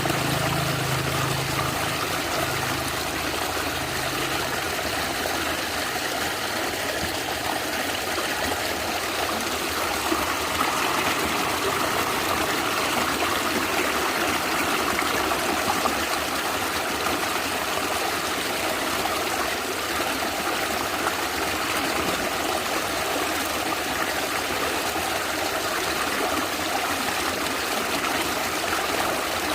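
Natural stream water gurgling and trickling steadily, with no change in level.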